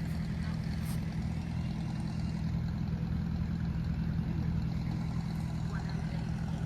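An engine running steadily at an even speed, with a low, rapidly pulsing note.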